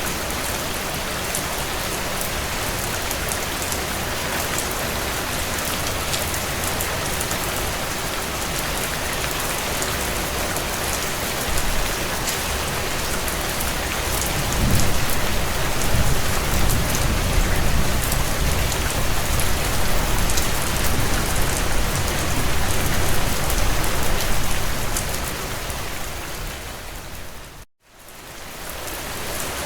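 Heavy rain drumming on a tin roof: a steady hiss with individual drops ticking through it. About halfway through, a low rumble swells and then fades. A couple of seconds before the end the sound cuts out abruptly and fades back in.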